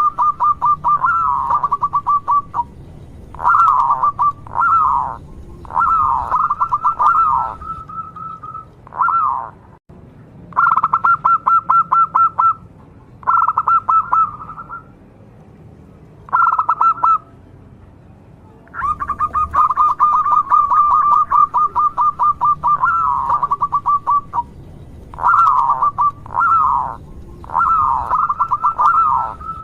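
Zebra dove (perkutut) cooing: bursts of rapid, evenly repeated short notes alternating with falling slurred notes, separated by pauses of a second or two.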